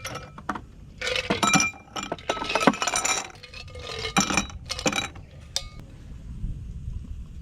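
Glassware clinking in several short bursts, sharp knocks with a brief ringing tone.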